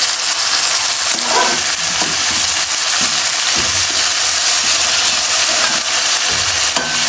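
Chopped tomatoes, ginger and green chillies sizzling in hot oil with frying onions in a metal kadhai, stirred with a metal slotted spoon that scrapes and knocks against the pan now and then.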